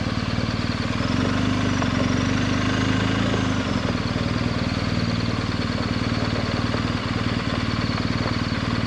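Adventure motorcycle engine running at low speed as the bike rolls slowly, a steady even pulse, slightly louder for a couple of seconds about a second in.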